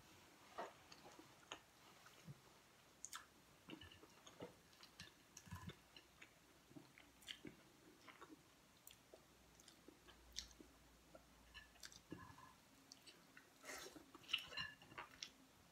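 Faint chewing and mouth sounds of a person eating rice and pork bistek with onions by hand: scattered soft smacks and clicks, with a louder cluster near the end as another handful goes into the mouth.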